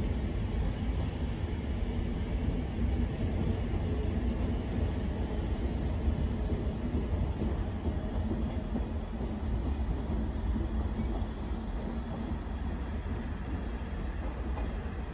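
SNCB electric multiple-unit train running along the track, a steady rumble of wheels on rail that eases slightly as it draws away near the end.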